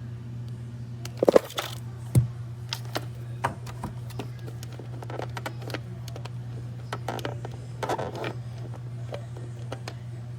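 A steady low hum with scattered clicks, knocks and scrapes of handling, the loudest about a second in and again near the end.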